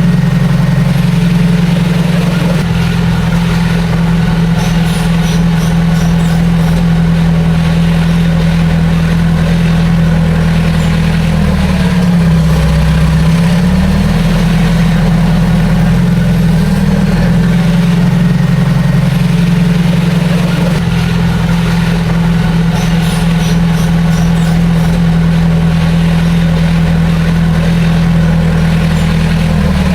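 Heavy diesel engine of a bulldozer running steadily. About twelve seconds in its pitch dips briefly and recovers, as the engine is loaded.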